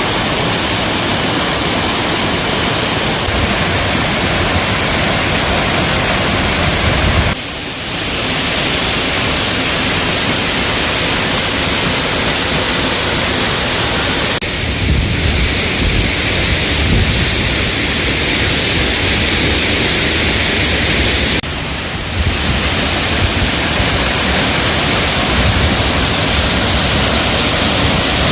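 Zengoro Falls, a mountain waterfall, heard as a loud, steady rush of falling water. The sound changes abruptly three times, at cuts between shots.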